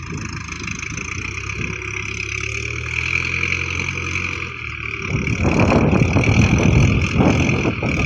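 Tractor engine running steadily, then a much louder, rougher noise takes over about five seconds in.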